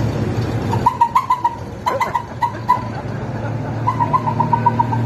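A car engine idles with a steady low hum. Short, high chirps sound over it: a few scattered ones about a second in, then a quick run of about eight near the end.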